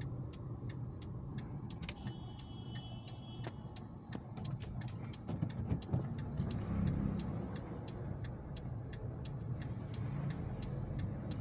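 Steady low rumble of a motor vehicle or road traffic, swelling briefly in the middle, with a regular fast ticking throughout and a short high tone about two seconds in.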